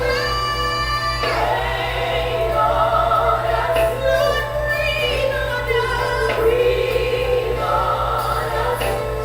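Gospel choir singing over a musical accompaniment, with a steady low hum underneath.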